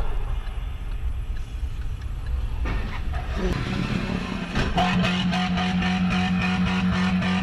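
Low rumble of a car driving on the road. About two-thirds of the way in, guitar music with a steady beat and a held low note comes in over it.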